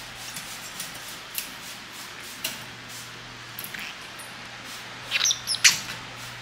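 Pet parrots at their food: a few scattered short clicks, then a quick burst of high chirps and squawks about five seconds in.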